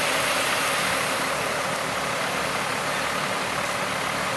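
Steady motor-vehicle noise: an engine running with a constant hiss of traffic or road noise over it.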